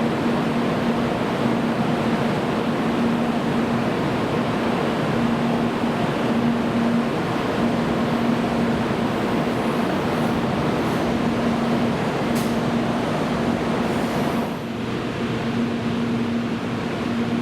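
700 series Shinkansen standing at the platform with its on-board equipment running: a steady rushing noise with a low hum that pulses on and off about once a second. About three-quarters of the way through, part of the noise drops away, as if a blower switches off.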